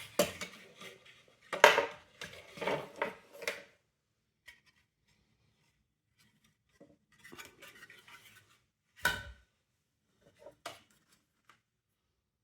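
Plastic parts of a window vacuum cleaner handled during disassembly: a burst of clattering knocks and scrapes, then a softer rustle, and two sharp knocks near the end.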